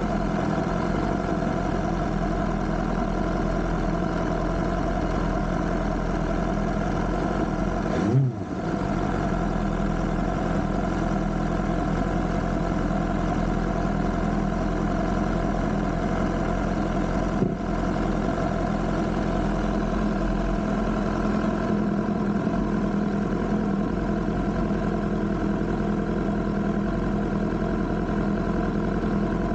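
BMW S1000R motorcycle's inline-four engine running at a steady pitch, with a brief rise and drop in pitch about eight seconds in and a short knock around seventeen seconds.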